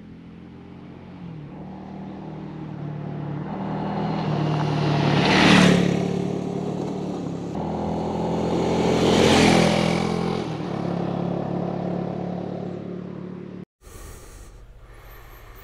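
Motor vehicle engine running, with a steady hum that grows louder. Two loud swells come about four seconds apart, like vehicles passing close by, and the sound cuts off abruptly near the end.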